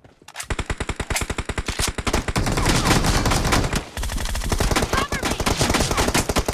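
Automatic gunfire in a shooter video game: long bursts of rapid, evenly spaced shots, many a second, with a brief gap about four seconds in.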